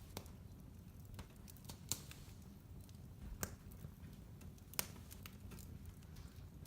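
Wood fire crackling in a fireplace: irregular sharp pops and snaps, three louder ones about two, three and a half and five seconds in, over a soft low rumble of the burning.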